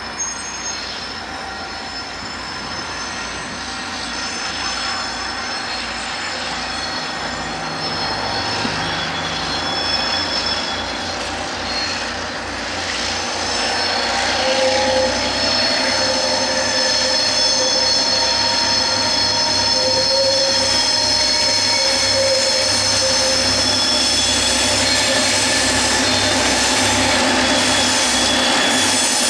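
KiwiRail DC class diesel-electric locomotives hauling a container train round a curve. The engine rumble grows steadily louder as the train approaches, and the wheels squeal in several high, steady tones that grow stronger about halfway through.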